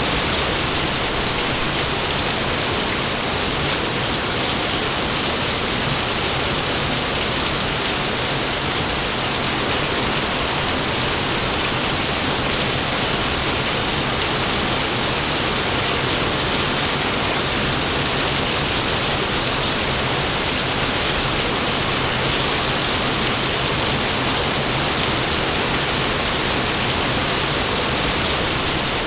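Heavy rain pouring steadily, an even hiss with no breaks.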